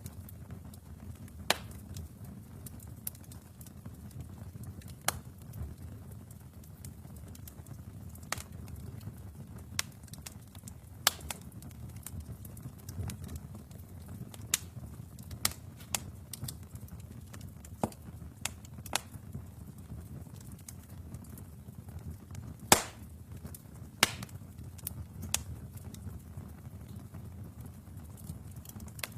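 Wood fire in a fireplace crackling: a low steady rumble of the burning logs with irregular sharp pops and snaps, one louder pop late on.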